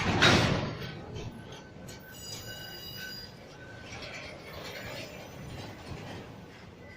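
Train on the tracks: a sudden loud rush of noise just after the start that dies away within a second, then wheels squealing in high, thin tones for about a second, over a steady rolling rumble.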